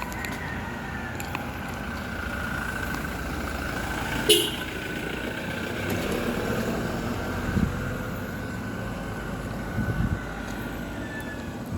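Steady road and vehicle noise, with a brief sharp sound about four seconds in and a couple of thumps near the end.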